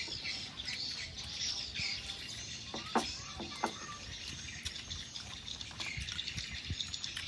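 Birds chirping in the background, with two sharp clicks about three seconds in.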